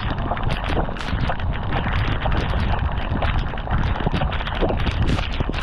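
Strong tropical-storm wind buffeting the camera microphone: a steady, heavy rumbling rush with many short ticks scattered through it.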